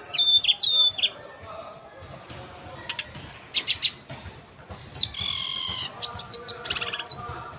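Tledekan gunung songbird singing a varied song: short sharp chirps, quick trills, and about five seconds in a clear whistle that slides down and then holds, followed by a fast run of notes.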